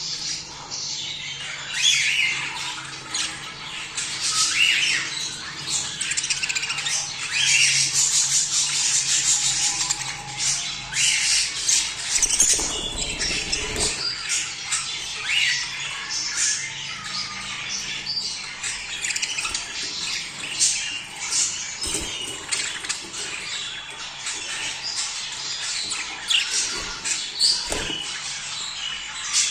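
A flock of budgerigars chattering and squawking, many short calls overlapping without a break: the busy warbling of birds in breeding condition.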